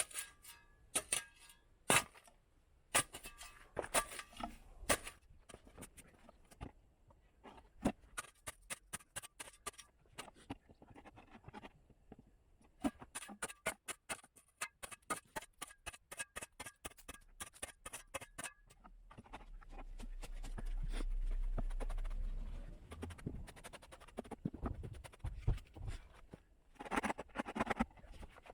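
Shovel digging and scraping in garden soil: many short scrapes and knocks of the blade against earth and grit, with a low rumble for a few seconds past the middle.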